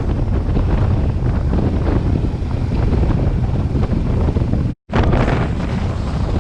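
Heavy wind buffeting the microphone of a motorcycle on the move, a steady deep rumble. The sound cuts out briefly near the end.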